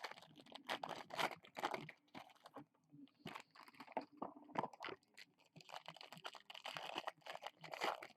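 Foil trading-card pack wrappers crinkling and tearing as packs are ripped open, an irregular run of crackles and rustles.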